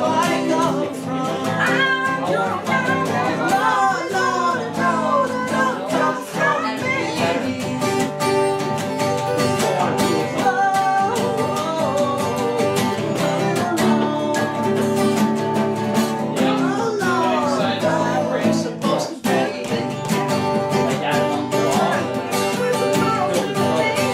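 Acoustic guitar music in a country-folk style: an instrumental break with strummed chords under a wandering lead melody.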